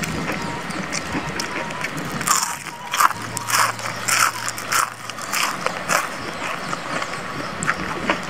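Crunchy bites and chewing of a crispy batter-fried leaf, a quick run of crisp crunches in the middle, with lighter chewing clicks around them.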